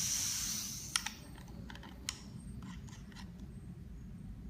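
Small stainless-steel vape atomizer parts being handled: a steady hiss stops with a sharp click about a second in, followed by a scatter of light metallic clicks and taps.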